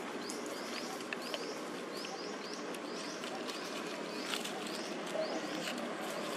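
A bird calling over and over in short high rising notes, about two a second, over steady outdoor background noise.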